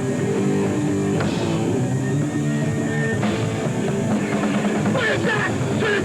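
Hardcore punk band playing live: distorted electric guitar chords and a drum kit, with a shouted voice coming in near the end.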